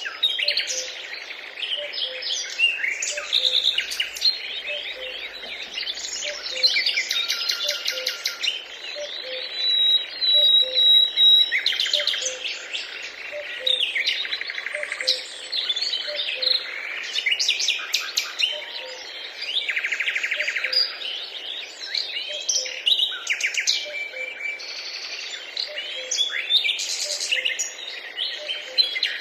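Several songbirds singing and chirping at once, with overlapping rapid trills, short chirps and a held whistle about ten seconds in. A faint low note repeats at a steady pace underneath.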